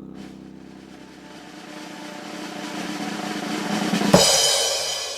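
Drum roll building steadily in loudness, ending about four seconds in on a crash cymbal hit that rings out and fades.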